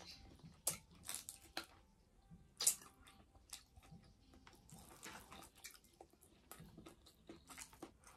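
Faint close-up chewing and eating by hand, with scattered sharp clicks and crunches; the loudest come about half a second and two and a half seconds in.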